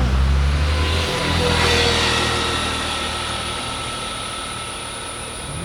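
Road vehicle engine running, with the sound swelling about two seconds in and then fading, as a vehicle going by would.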